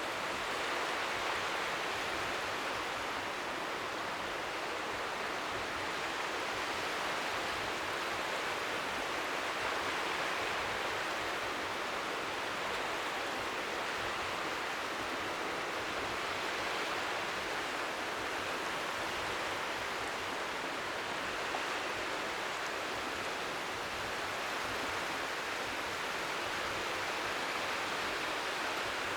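Strong sea wind making a steady rushing hiss, with faint waves lapping on the shore beneath it. The level swells gently now and then.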